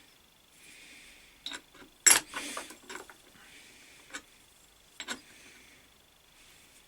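Short rubbing and scraping strokes with sharp metal clicks and knocks as the threads of a lathe fixed steady are cleaned out; the loudest knock comes about two seconds in.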